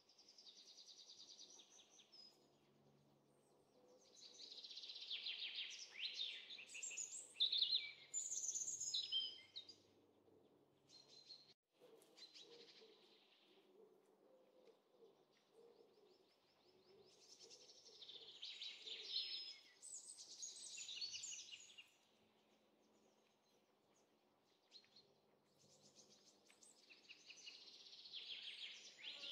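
Small birds chirping and chattering in four bouts of a few seconds each, with quiet between them.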